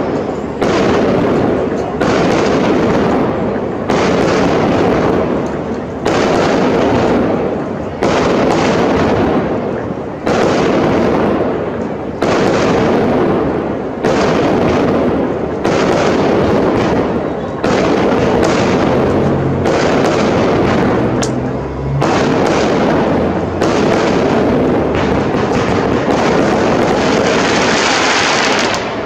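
Aerial firework shells bursting in steady succession, a loud bang about every two seconds, each trailing off in an echo that runs into the next.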